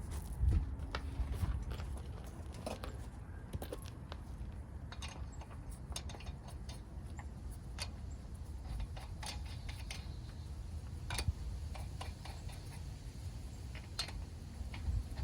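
Irregular light metallic clicks and knocks of hand tools and parts being handled during work on a pickup's front axle, over a low steady rumble.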